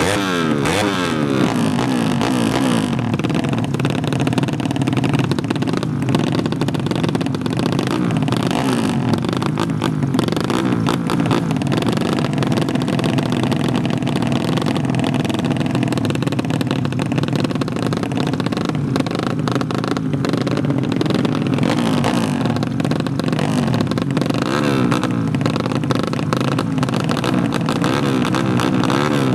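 Underbone motorcycle engines revving hard, their pitch rising and falling again and again, with more than one engine running at once.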